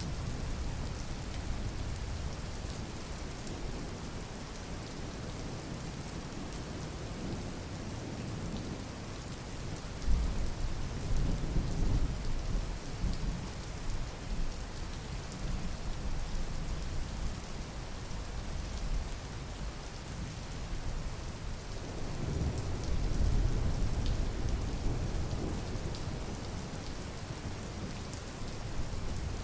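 Steady rain with thunder: two low rolling rumbles, the first beginning sharply about a third of the way in and the second about three-quarters through.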